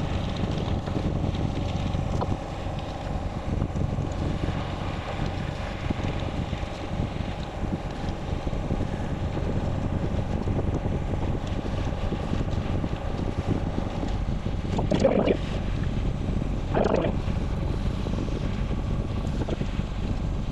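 Wind buffeting the microphone of a camera carried on a moving bicycle, a steady rumbling noise. Two short, louder sounds break through about three-quarters of the way in.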